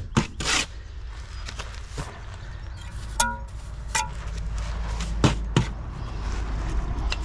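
Steel brick trowel tapping and scraping on mortar and engineering bricks: a series of separate sharp knocks, two of them with a short metallic ring about three and four seconds in, over a steady low rumble.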